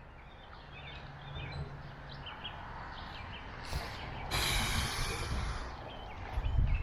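Outdoor ambience with scattered short bird chirps. About four seconds in, a brief burst of hissing noise begins abruptly and fades out within two seconds.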